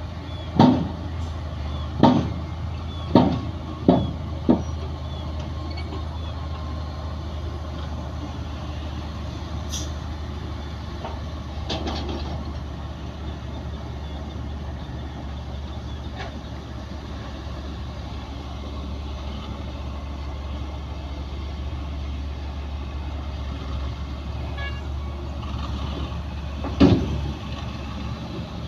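Heavy diesel earthmoving machinery running steadily with a low engine drone. Five sharp loud bangs come in the first five seconds, and one more comes near the end.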